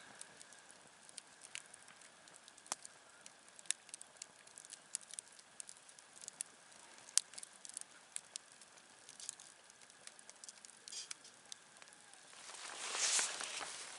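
Wood campfire crackling, with irregular sharp pops and snaps over a faint steady hiss. Near the end a louder hissing rush swells for about a second, then dies away.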